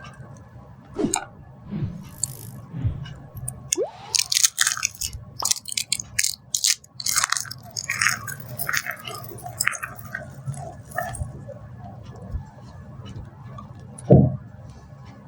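Dry soap being crushed, a dense run of sharp crunches and crackles in the middle, with a few knocks before it and one loud low thump near the end.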